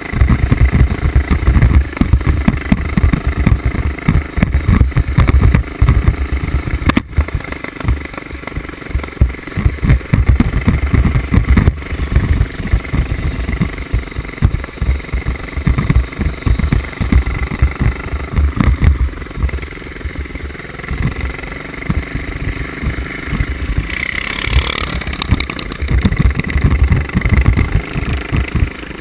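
Small mini bike engine running hard and revving off-road, with rough, uneven pulsing as the throttle comes on and off. There is a sharp knock about seven seconds in, and a rising whine near the end as it revs up.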